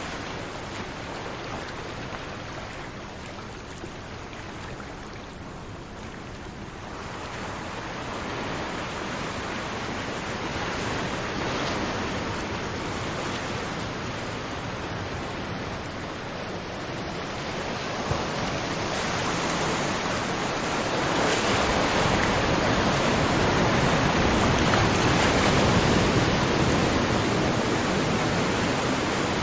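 Ocean surf: a continuous wash of breaking waves that ebbs a few seconds in, then swells slowly to its loudest over the last third.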